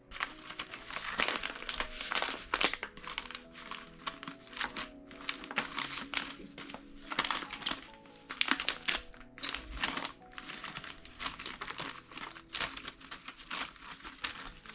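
Packaging being handled and crumpled, an irregular crinkling that goes on all through, over soft background music.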